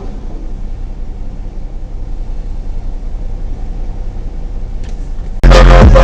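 Steady low rumble of a car on the road, engine and tyre noise heard through a dashcam. Near the end, much louder music suddenly cuts in.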